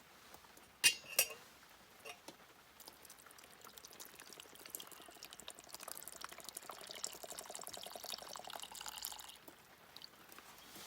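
Two sharp clinks about a second in, then liquid trickling and splashing for several seconds.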